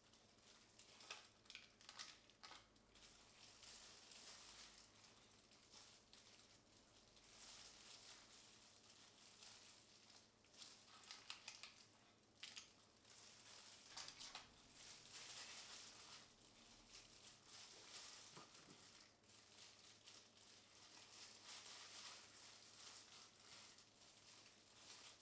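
Faint kitchen food-preparation sounds: soft crinkling and scattered light clicks and taps, with brief crackly stretches.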